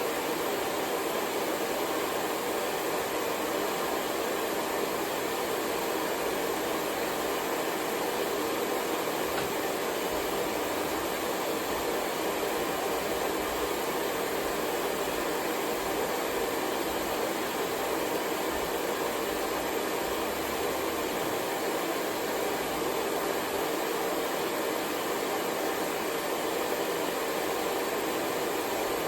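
Hair dryer blowing steadily, a continuous even rushing hiss with no changes in pitch or level.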